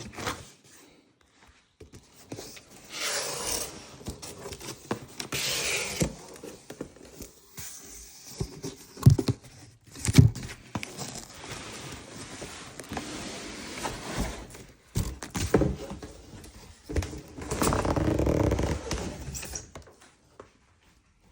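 Scraping and rustling handling noises with a few sharp knocks, as objects are moved and handled.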